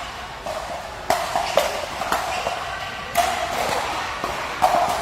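Ball hits in a mixed-doubles rally: a string of sharp, ringing strikes and bounces, irregularly spaced about half a second to a second and a half apart, in a large echoing hall.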